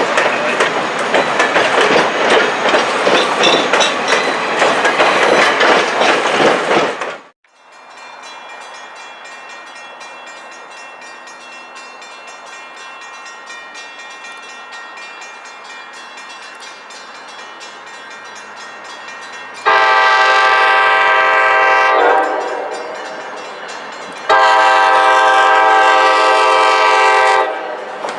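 A train passes close by, loud and rumbling with rail clatter. After a sudden cut comes a quieter steady hum, then two long blasts of a train horn, the second a little longer.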